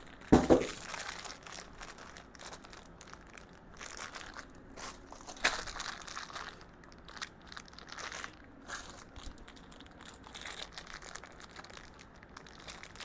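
Plastic hardware bags crinkling and rustling as they are handled and opened, in irregular bursts, with a louder knock about half a second in.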